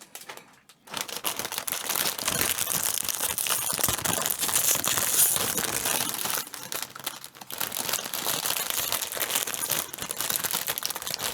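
Plastic bags of a Gunpla model kit's parts crinkling loudly as they are opened and handled, a dense crackle that starts about a second in.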